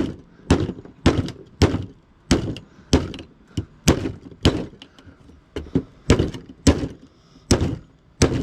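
Repeated heavy blows knocking apart a piece of scrap, about two a second, each a sharp thunk with a short ring.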